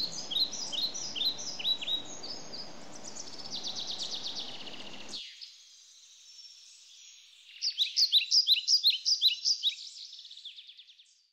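A bird chirping: rows of short, high chirps that fall in pitch, several a second, over a faint hiss. The hiss drops away about five seconds in, and a louder run of chirps follows a couple of seconds later.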